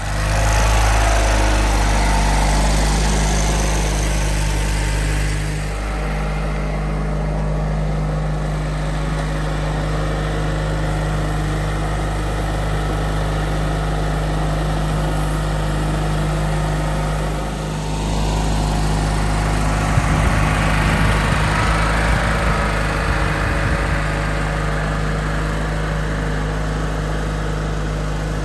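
Simplicity 7117 garden tractor's engine running steadily, its note dipping and shifting briefly about six seconds in and again near eighteen seconds.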